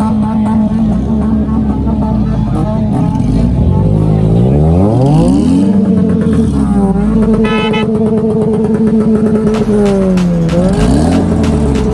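Engine revving. It climbs in pitch over a couple of seconds, holds a steady high rev, then drops and climbs again near the end.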